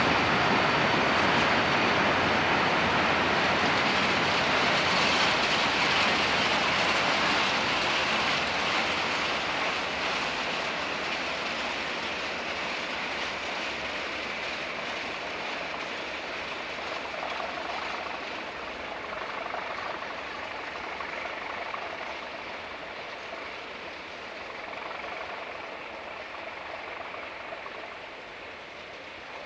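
Freight train of steel-carrying wagons behind a Class 37 diesel locomotive rolling past on the rails and drawing away, its noise fading steadily as the train recedes.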